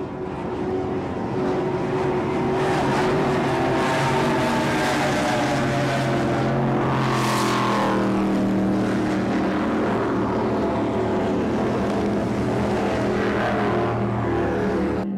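Offshore racing powerboat engines running hard at speed, one boat passing close about halfway through, where the sound swells to its loudest and the engine pitch then drops a little as it moves away.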